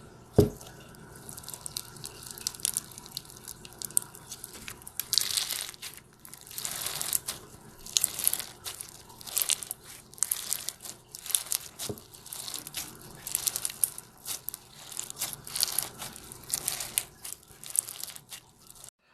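Slime being squeezed and worked by hand, with irregular crackling, crinkling squishes and one sharp click about half a second in.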